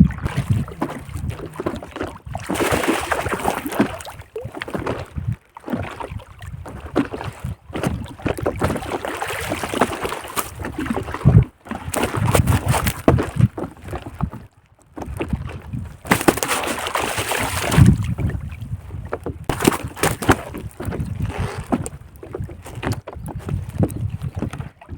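Water splashing and sloshing in irregular bursts as a large rohu carp is worked free of a fishing net at the water's surface, with knocks and rustles from handling the net and boat.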